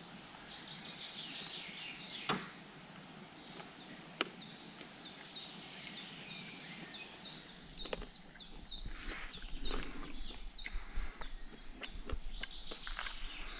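A songbird singing a long series of short, falling notes, about three a second, over quiet outdoor background noise, with a few sharp knocks along the way.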